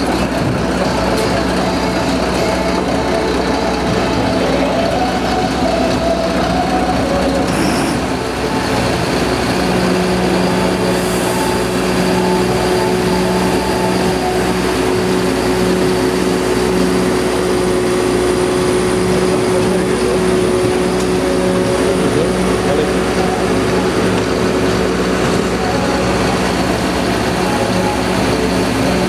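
Engine of a Magirus aerial ladder truck on a Mercedes-Benz Atego chassis, running steadily with a low hum. About ten seconds in, a higher steady tone joins it.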